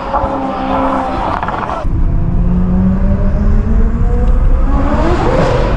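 Ferrari 488 Pista's twin-turbo V8 through a Ryft aftermarket exhaust, heard in two cuts: one engine note breaks off abruptly about two seconds in, then a louder, deeper note holds steady and climbs in pitch near the end as the car accelerates.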